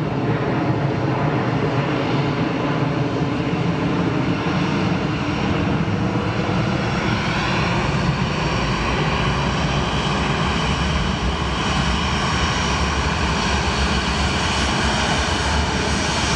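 Jet engines of a Sichuan Airlines Airbus A350 airliner going past on its landing approach: a loud, steady roar with whining tones that shift in pitch about halfway through.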